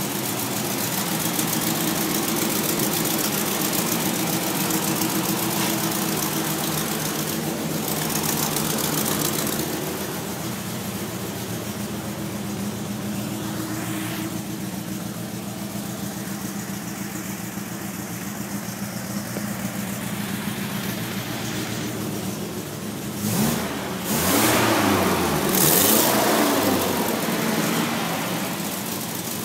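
Wolseley 18/85's 1.8-litre B-series four-cylinder engine running on a new exhaust pipe, idling steadily, then revved a few times near the end.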